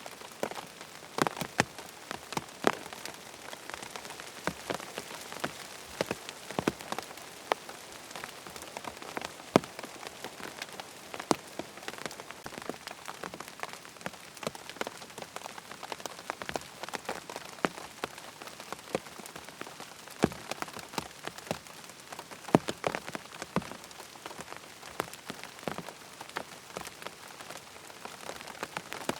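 Steady rain falling on a tent, an even hiss with many separate sharp drop impacts pattering irregularly on the fabric.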